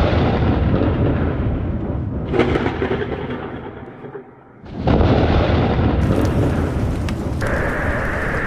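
Thunder rumbling in two long rolls. The first fades slowly and the second starts about five seconds in; a steady hiss joins near the end.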